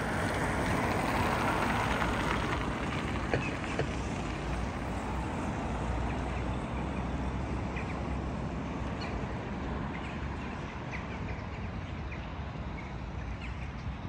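Steady outdoor noise, loudest in the first two or three seconds, with short faint bird calls scattered through it.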